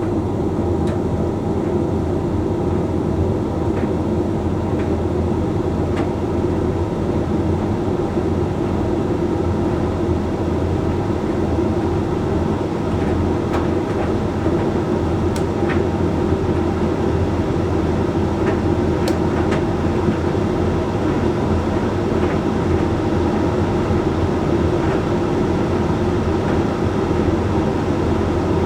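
Hoover Link X Care condenser tumble dryer running mid-cycle: a steady motor hum and drum rumble, with a few sharp clicks from the tumbling load.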